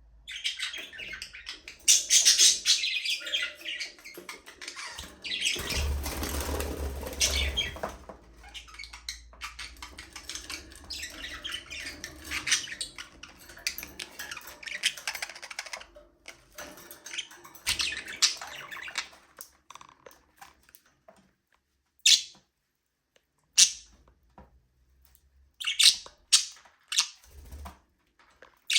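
Budgerigars chirping and chattering in a busy, overlapping stream that thins after about twenty seconds to a few short, separate squawks. About five seconds in, a rustling noise with a low rumble runs under the calls for around two seconds.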